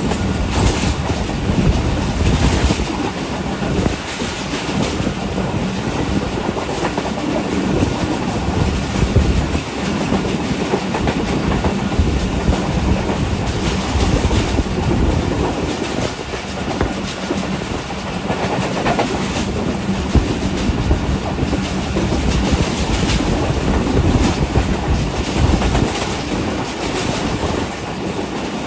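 Passenger coach of a moving train heard from its open window: a steady rumble and rush of the running gear, with the wheels clicking irregularly over the rail joints.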